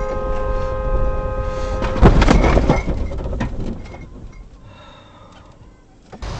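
A vehicle horn blaring with one steady tone, then about two seconds in a loud car collision impact, followed by crunching and scattered clattering of debris that dies away.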